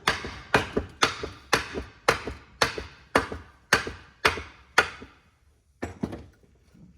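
Hammer blows on a stuck part of a Ford-o-Matic transmission, about ten sharp strikes at roughly two a second, then a short pause and two more. The part will only move so far and then catches, which they put down to a burr.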